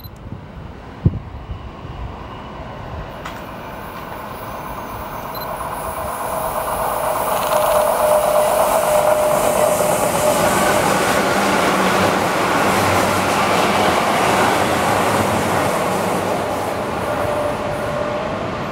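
Keihan electric commuter train coming round the curve and running past close by. Its rumble and wheel-on-rail clatter build to a peak midway, with a steady whine through the loudest part, then ease off. There is a sharp knock about a second in.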